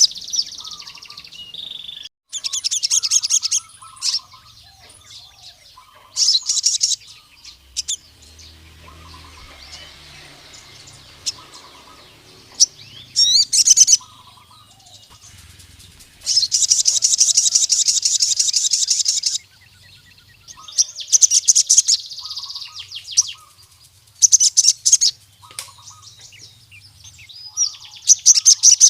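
Male crimson sunbird (sogon) singing: bursts of fast, high trilled notes every few seconds, the longest lasting about three seconds in the middle. It is a male's song calling out rival males.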